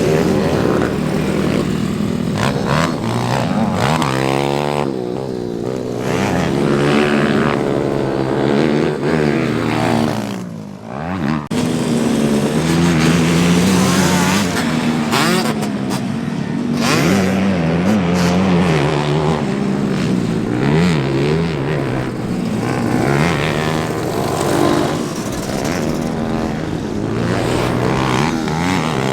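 Pit bike's single-cylinder engine being ridden, its pitch rising and falling repeatedly as the throttle is opened and rolled off. The engine sound drops away briefly about ten seconds in, then picks up again.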